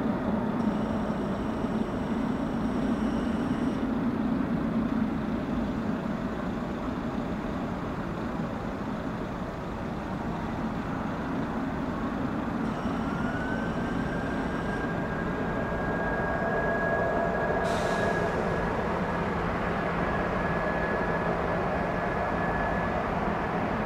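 Boeing 777-300's jet engines running at taxi power: a steady rumble with a whine that rises about halfway through and then holds steady. A short click sounds near the end.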